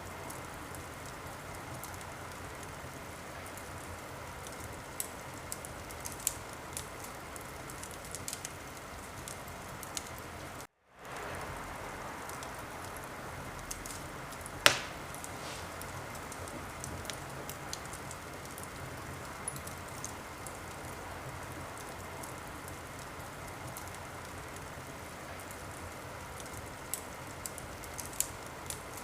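Wood fire in a fireplace crackling, a steady hiss with scattered small pops and one loud sharp pop about fifteen seconds in. The sound cuts out for a moment about eleven seconds in and fades back up.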